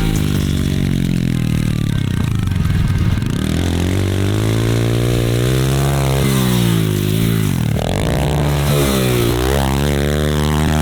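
Off-road vehicle engine revving up and down repeatedly as it is driven, its pitch climbing and falling with the throttle several times.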